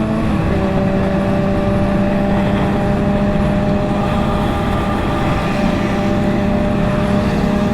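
Motorcycle engines running at a steady cruise, holding an even pitch, over heavy wind and road rumble.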